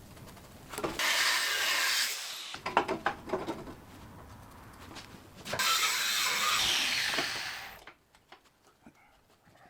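Angle grinder grinding steel in two bursts of about a second and a half and two seconds, each trailing off as the disc spins down, with clicks and knocks of metal being handled between them.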